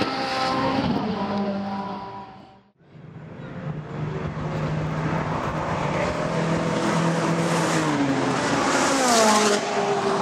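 Ferrari 458 Italia's naturally aspirated V8 passing at speed: its note falls in pitch and fades away, then another pass builds up, runs steady, and drops sharply in pitch as the car goes by.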